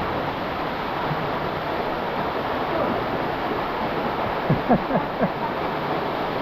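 Steady rush of canyon water from a stream or waterfall. About four and a half seconds in comes a quick run of four short blips that slide in pitch.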